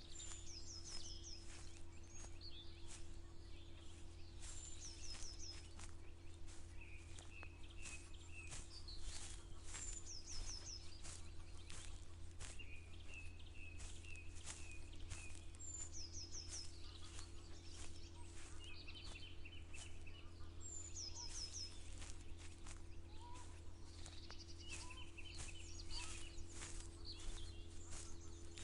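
Songbirds singing: one repeats a short phrase of quick falling high notes every five seconds or so, while another answers with lower chattering trills. Footsteps make short irregular clicks throughout, over a faint steady hum.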